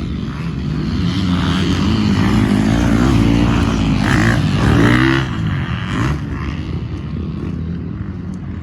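A 450cc dirt bike engine running and revving, its pitch rising and falling. It grows louder to a peak about five seconds in, then drops back to a steadier run.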